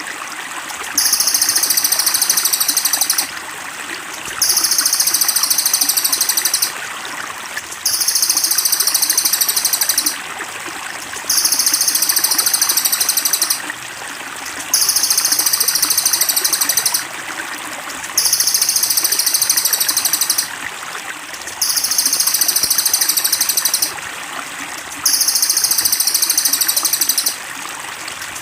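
A high, buzzy bird trill from a looped masteran song-tutoring recording, each phrase lasting about two seconds and repeating at an even pace about every three and a half seconds. Steady trickling water runs underneath.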